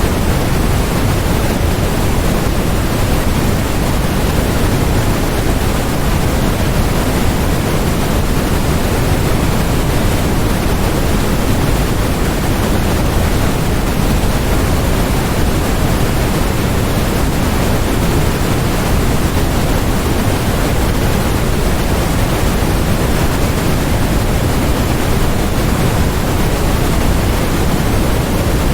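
Steady synthetic noise played as a focus aid: an even, unchanging rush across the whole range. It is heavier in the low end than in the highs, so closer to pink noise than flat white noise.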